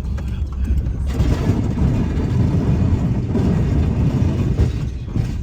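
Snowplow truck's engine running steadily with a low rumble, joined about a second in by a broad rushing noise.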